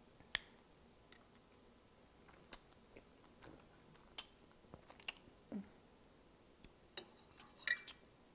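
Close-miked mouth sounds of someone eating spicy ramen noodles: scattered wet clicks and smacks of chewing, with a short cluster of sharper clicks near the end.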